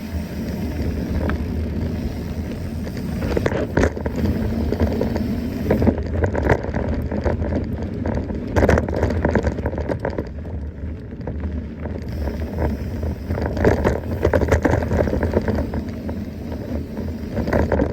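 Mountain bike rolling over a rough dirt trail: tyres crunching and crackling on loose ground, with rattling from the bike and a steady low rumble throughout.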